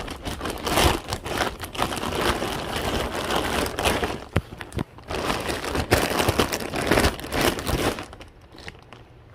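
Packaging crinkling and rustling as a bag of items is rummaged through, with a few sharp knocks from hard objects. It dies down near the end.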